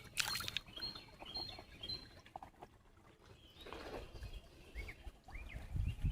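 Small birds calling: a run of short, high, repeated chirps, then a few sliding calls. A few sharp clicks come right at the start.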